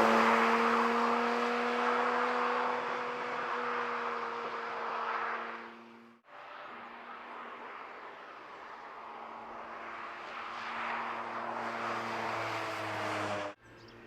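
The Porsche 718 Cayman GT4 RS's naturally aspirated flat-six engine holds a steady note as the car drives away, fading for several seconds. After an abrupt cut about six seconds in, the engine is heard again, growing louder as the car approaches, before another abrupt cut near the end.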